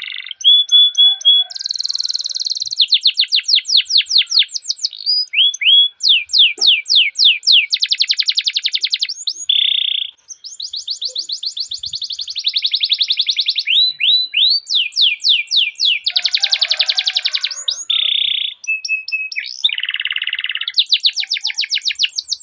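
Domestic canary singing a long, unbroken song of fast rolls: phrases of rapidly repeated high chirps, buzzy trills and short steady whistled notes, switching from one phrase to the next every second or two.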